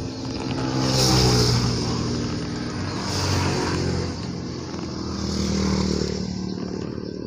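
Motor vehicles passing on the road close by, about three one after another, each engine note swelling and fading as it goes past.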